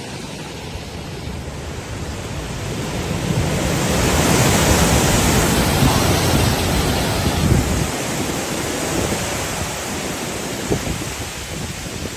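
Strong typhoon wind gusting and buffeting the microphone, a loud rushing noise that swells to a peak a few seconds in and then eases off.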